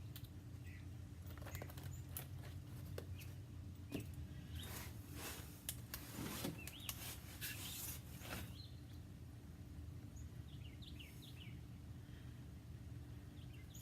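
Quiet handling noises: scattered clicks and rustles over a steady low hum, with a few faint high chirps about eleven seconds in.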